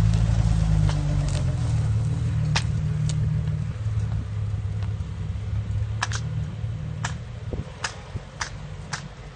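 A motor vehicle's engine running with a steady low rumble that slowly fades, with scattered sharp clicks.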